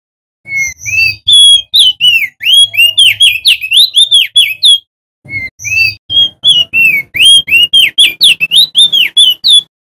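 Male opior jambul (prenjak daun) singing two loud phrases, each a fast run of clear whistled notes that arch up and down, split by a short break about halfway through.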